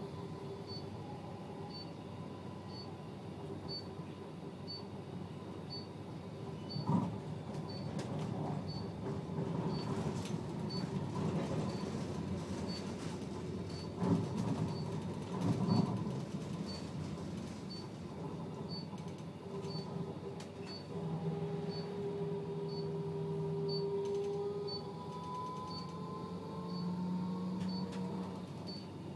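Electric tram running, its motors giving a steady whine that slides in pitch as it slows and later picks up speed, with a few knocks along the way. A faint high tick repeats about once a second.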